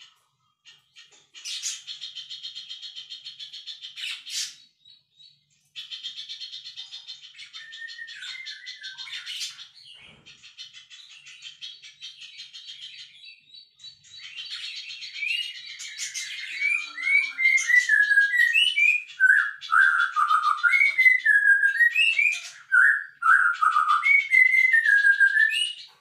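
Songbird chirping: repeated phrases of a fast, buzzy high trill with short pauses, joined about fifteen seconds in by a louder song of short whistled notes that slide up and down.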